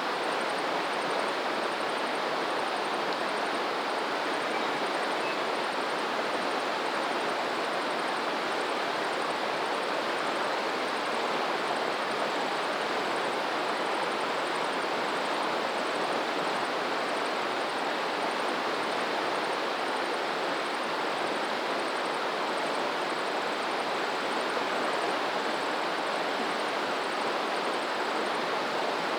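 Steady rushing of flowing water, an even noise with no surges or breaks, with a faint, rapid, high-pitched ticking above it that stops near the end.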